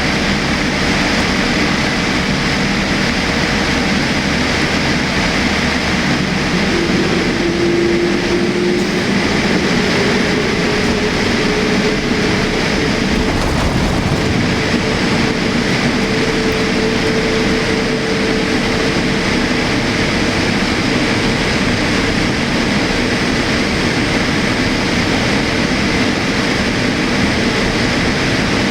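Steady jet-engine and airflow noise heard inside the cabin of a Boeing 787-8 airliner. A faint tone in it slowly rises in pitch about a quarter of the way in.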